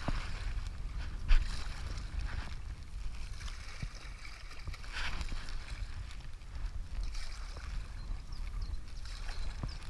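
River water rushing and gurgling around a stand-up paddleboard, with paddle strokes splashing now and then and a sharp knock about a second in. Low wind rumble on the microphone underneath.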